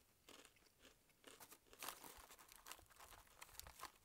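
Faint, irregular crunching of someone chewing crunchy stick pretzels.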